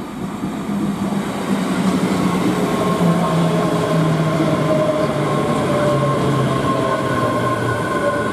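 ScotRail Class 385 electric multiple unit arriving and passing close by, with wheel-on-rail rumble and a traction whine whose pitch falls slowly as the train slows to a stop.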